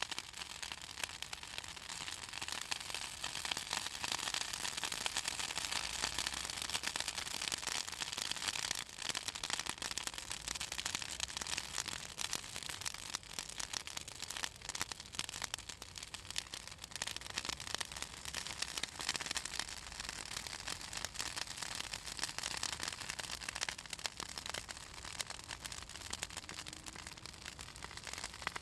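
Pruned southern magnolia branches burning in an open wood fire, crackling and popping constantly with a steady hiss; the oil in the wood makes it crackle.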